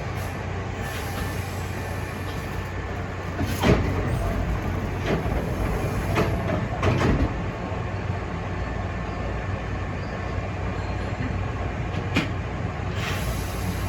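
Hankyu Imazu Line electric train running, heard from on board: a steady rumble with a low hum from the running gear. A few sharp clunks from the wheels on the track come in the middle, and one more near the end.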